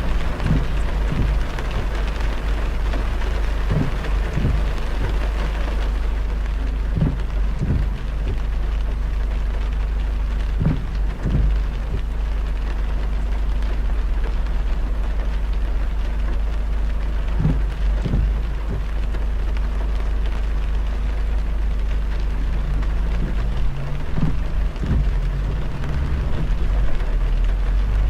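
Heavy rain hissing on a moving car over a steady low road rumble, with short low thuds every few seconds, often in pairs. The hiss lightens a little after about six seconds.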